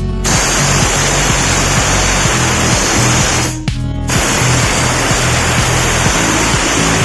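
Steam wash gun jetting with a loud, steady hiss that stops for about half a second midway, then starts again, over background music.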